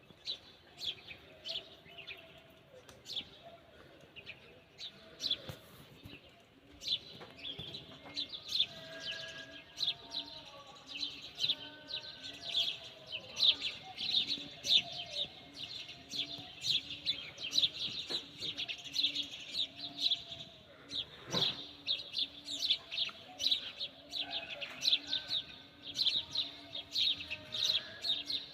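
Small birds chirping rapidly and continuously, a dense run of short, high chirps several times a second.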